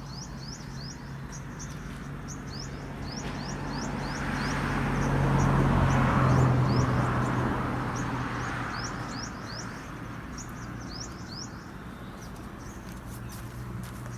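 A motor vehicle passes by, its engine hum and road noise swelling to a peak about six seconds in and then fading. Over it a bird chirps over and over in short, high notes.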